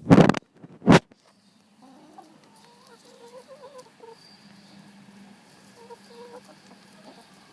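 Two loud, short bursts of noise in the first second, then chickens clucking softly and continuously over a low steady hum.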